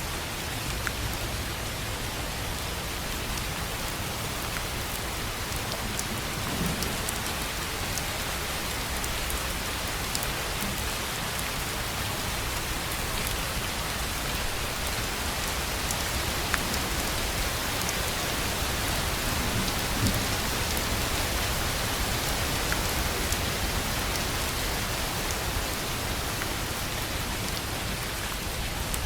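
Steady rain falling on a tin roof, with scattered sharp drop ticks through an even hiss.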